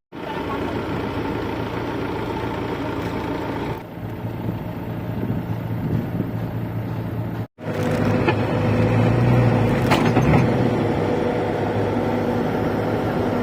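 A vehicle engine running steadily under load. It is broken twice by abrupt cuts and is louder after the second, about seven and a half seconds in.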